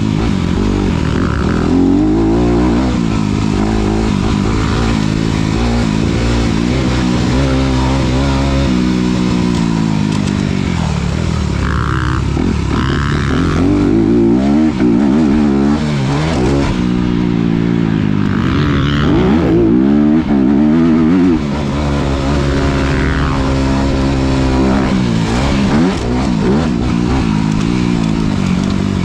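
2019 Honda CRF250RX dirt bike's single-cylinder four-stroke engine being ridden hard, revving up and dropping off again and again as the throttle opens and closes around the track.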